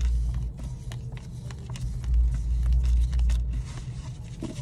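Low engine hum and deep rumble heard from inside a car whose engine is running, swelling louder for a while in the middle, with a few faint ticks.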